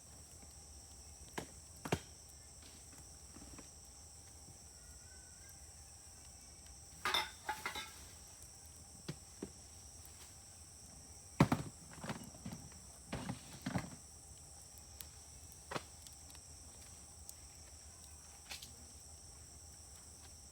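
Wood burning in a Uniflame fire grill, crackling and popping: scattered sharp pops, with a burst of crackles about seven seconds in and the loudest pop and a run of crackles from about eleven to fourteen seconds in. A steady high-pitched insect drone runs underneath.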